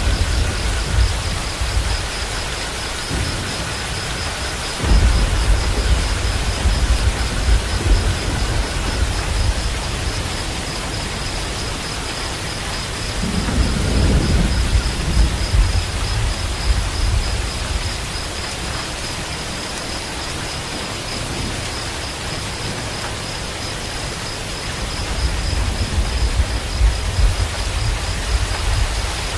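Steady heavy rainfall with low rolling rumbles of thunder that swell and fade three times.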